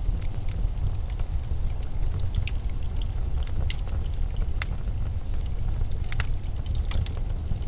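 Winter storm wind in a steady, deep rumble with a faint hiss above it, dotted with scattered light ticks and crackles.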